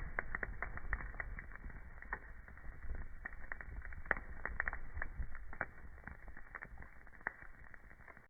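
Wood fire crackling, with irregular pops and snaps over a low rumble of the flames; one sharper pop comes about halfway through, and the crackle thins out near the end.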